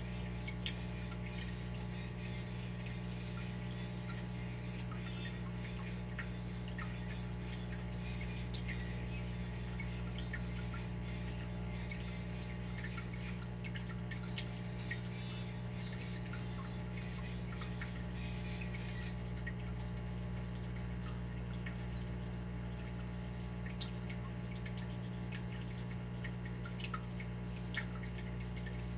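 Water dripping: scattered single drops ticking at irregular intervals over a steady low hum. A high hiss runs underneath and stops about two-thirds of the way through.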